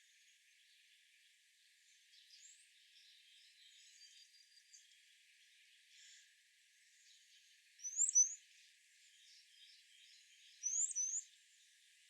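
Wild birds calling: a bird gives two loud calls about three seconds apart, each a pair of quick high rising notes, over faint scattered chirping from other birds.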